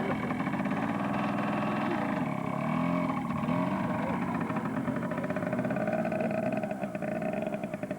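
Small dirt bike engine running, its pitch rising and falling with the throttle.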